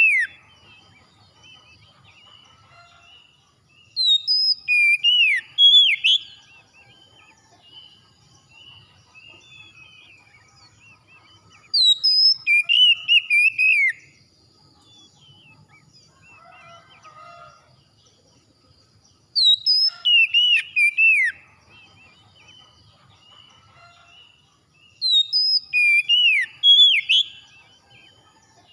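Oriental magpie-robin singing loud phrases of clear whistled notes that swoop up and down, in four bursts of about two seconds each, spaced roughly seven seconds apart, with faint chirps and insects between.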